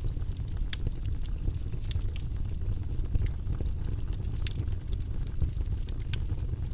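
Logs burning in a fireplace: irregular sharp crackles and pops, a dozen or so, over a steady low rumble of the flames.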